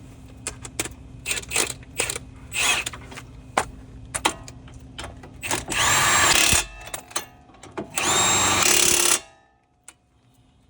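Impact wrench run in two bursts of about a second each, around six and eight seconds in, tightening the bolts of a car's suspension arm. Before them come scattered metallic clicks and knocks of hand-tool work.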